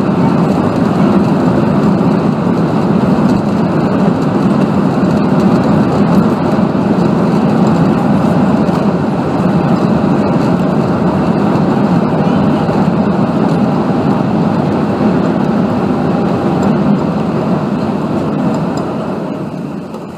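Loud steady rush of an Airbus A380's engines and airflow heard from inside the cabin during landing, dying away near the end.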